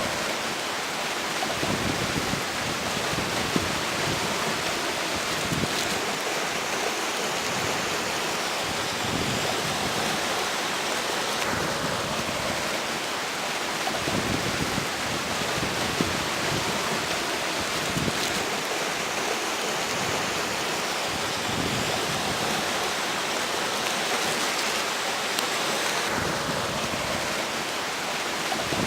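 River water rushing steadily, with strong wind gusting over it, the gusts swelling and fading every few seconds.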